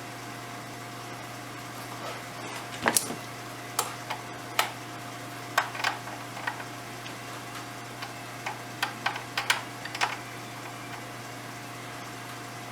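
A string of short, light clicks and knocks, scattered over several seconds, from parts and tools being handled during engine work, over a steady low hum.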